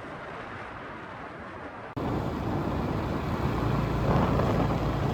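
A motor vehicle running: an even rushing noise, then an abrupt cut about two seconds in to a louder, steady low engine hum.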